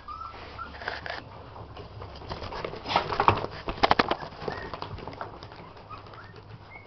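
Puppies whimpering: a string of short, high squeaks that each drop in pitch, bunched in the first second and again near the end, with a burst of sharp clicks and scuffles about three to four seconds in.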